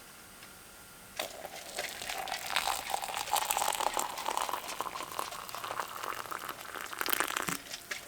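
Snow crackling as it melts in a pot on the tent stove: a dense run of small crackles that starts suddenly about a second in and stops near the end.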